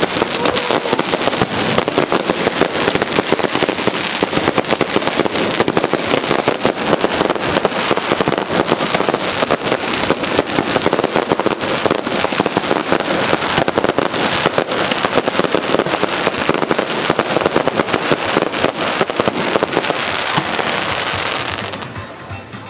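Aerial fireworks crackling and popping in a dense, rapid, continuous barrage, dying away about a second before the end.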